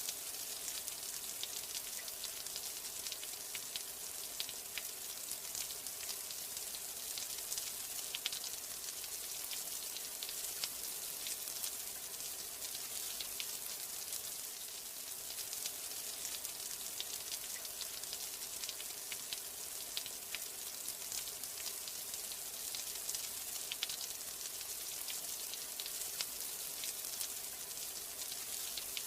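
Steady rain: an even hiss with many individual drops ticking sharply.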